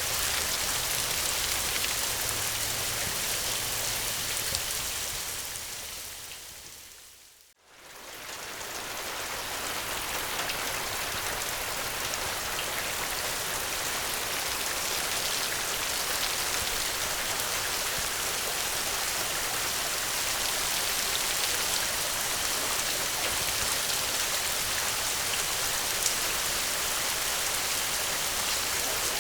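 Steady, heavy rain falling. About seven seconds in it fades almost to silence and straight back up, like the seam where a looped recording joins.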